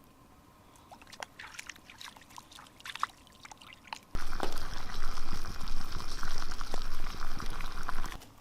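Faint scattered crackles, then about four seconds in a loud spell of water pouring and trickling, which cuts off abruptly just before the end.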